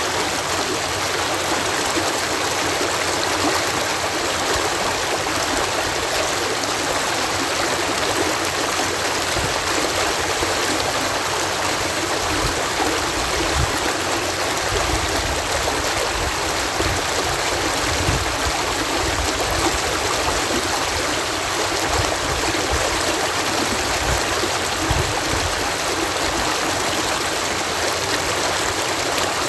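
Water pouring over a canal lock in a steady, dense rush, with an uneven low rumble underneath.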